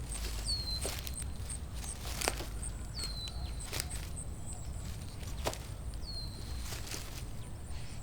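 Woodland ambience: scattered soft footfalls crunching in the undergrowth, and a bird giving a short high chirp that drops and then holds, three times a few seconds apart, over a steady low rumble.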